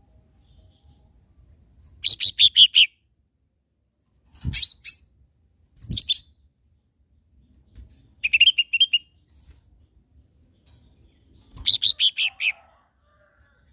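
Lesser green leafbird (cucak ijo mini) singing: five short bursts of quick, sharp chirping notes, separated by pauses of a second or more.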